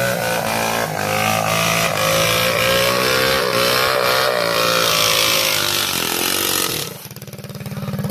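Small mini bike engine running with its pitch rising and falling as the throttle is worked. About seven seconds in, the sound cuts to a quieter engine idling with a rapid, even putter.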